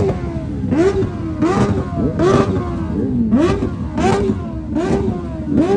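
Superbike engine being revved in quick throttle blips, about eight in a row, each a rising then falling engine note.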